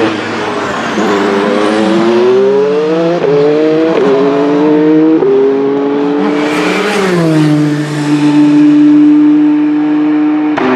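Toyota TS050 Hybrid LMP1 prototype's 2.4-litre V6 accelerating hard, its pitch climbing and dropping back with three quick upshifts. It passes close a little past halfway, the pitch falling as it goes by, then holds a steady note at speed.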